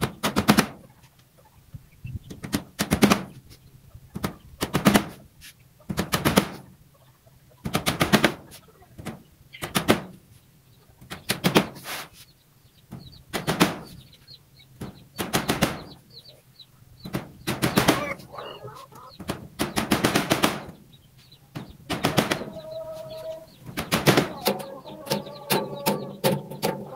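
Cage-building work noise: short bursts of rapid rattling clicks, repeating about every one and a half to two seconds.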